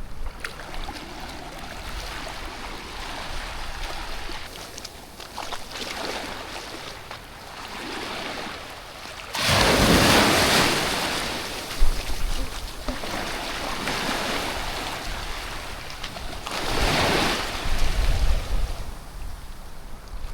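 Calm sea waves breaking and washing up the shore in slow swells, the loudest about halfway through and another near the end. Wind buffets the microphone at times.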